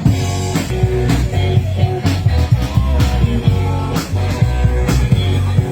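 A live rock band playing: electric guitar and bass over a steady drum-kit beat.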